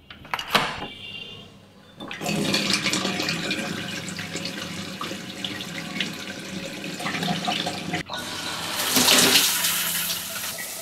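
A door opens with a short knock-like click. From about two seconds in, a water tap runs steadily into a sink. It cuts off abruptly at about eight seconds and is followed by a louder, hissier shower spray.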